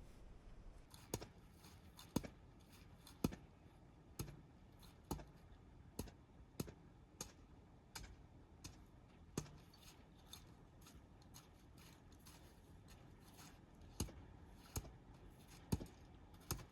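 A series of sharp clicks or snaps, roughly one a second and unevenly spaced, pausing for a few seconds in the middle, over a quiet background.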